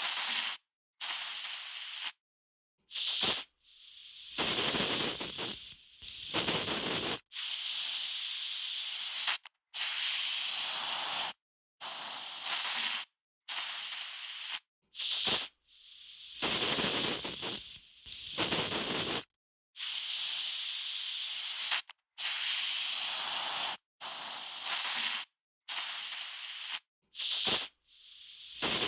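Aerosol spray can spraying in repeated bursts of hiss, each from a fraction of a second to about two seconds long, with short silent gaps between them.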